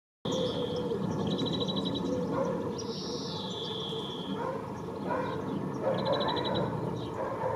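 A bird singing a repeated phrase of clear whistles: a held note, a quick trill and a falling whistle, heard twice, over a steady low rumble.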